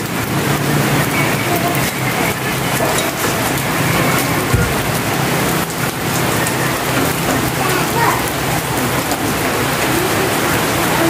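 Steady hiss of rain, with a low steady hum underneath and a single knock about four and a half seconds in.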